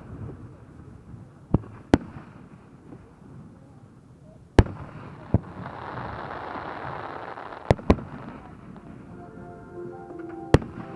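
Aerial fireworks shells bursting: about eight sharp bangs, some in close pairs, with a hissing stretch in the middle.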